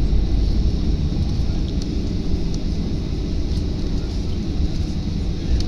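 Steady low rumble of a jet airliner heard from inside the cabin while it rolls on the ground after landing, with faint light ticks now and then.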